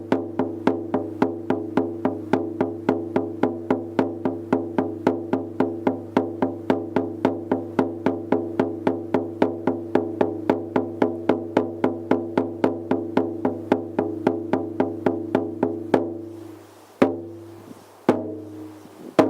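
Shaman's frame drum beaten in a steady, even rhythm of about three to four strikes a second, each stroke ringing with a low, pitched hum. Near the end the beating stops and three last, spaced strikes ring out and die away.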